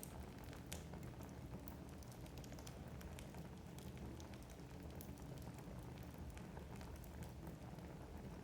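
Wood fire burning in a fireplace: a low steady rumble with light, irregular crackles and pops of burning logs.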